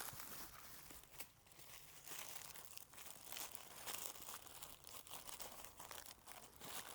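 Plastic bags and food wrappers crinkling and crackling irregularly as packaged food is handled and unwrapped.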